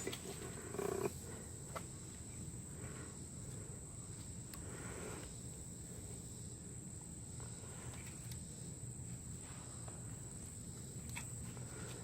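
Faint rustling of synthetic winch rope being worked by hand, with a few soft handling noises, over a steady low hum and a thin, steady high-pitched whine.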